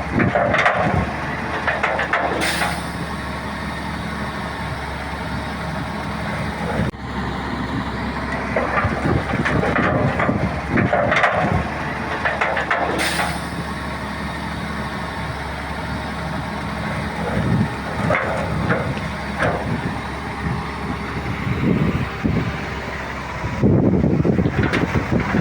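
Heavy diesel engine of a Shantui bulldozer running steadily at work, with irregular clanking and rattling over it. Two brief hisses, about two seconds in and again near the middle.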